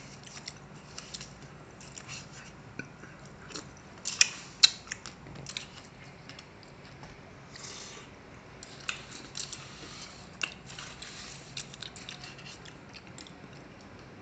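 Close-miked eating of halo-halo shaved-ice dessert: mouth sounds of chewing and biting, with scattered small clicks and crackles. Two sharp clicks stand out about four seconds in.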